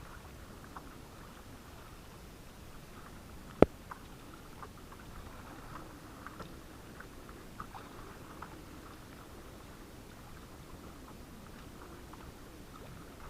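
Canoe being paddled: faint water sounds and small scattered ticks and drips, with one sharp knock about three and a half seconds in.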